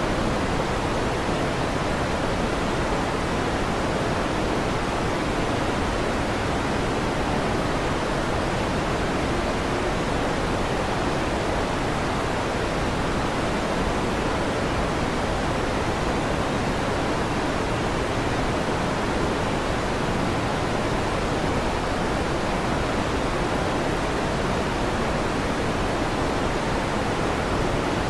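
Electric fan running steadily: an even, unchanging whoosh with no thunder or other events.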